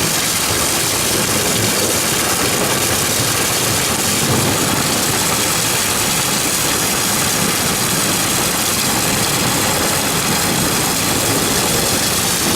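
Heavy storm rain pouring down, a steady, even rushing noise with wind and water spilling from overflowing gutters.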